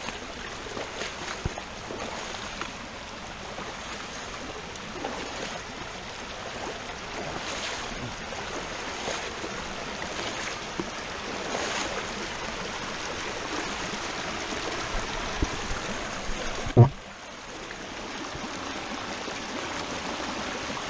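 Flooded creek water rushing steadily, with splashes about every second and a half from someone wading through it. A single sharp knock about seventeen seconds in, after which the water sounds quieter.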